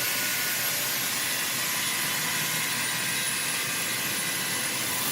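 Steady hissing noise of a running machine, with a thin high whine that wavers slightly.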